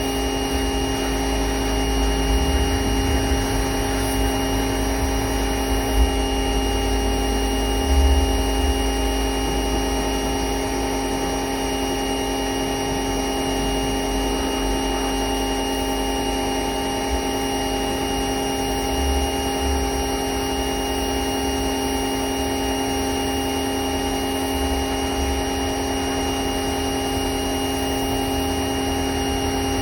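Electric motor of a car-cleaning machine running steadily with a constant whine, over a low rumble with a few brief thumps.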